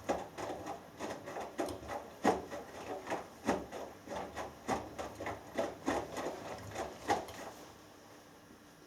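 Hoover Dynamic Next washing machine drum turning a wet cotton load during the wash, with irregular soft thuds and sloshes about two a second. The tumbling stops about seven and a half seconds in, leaving only a faint hum.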